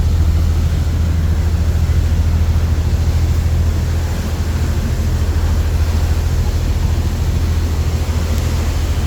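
Steady low drone of a passenger ferry under way, its engines rumbling deep and constant with a rushing haze over it.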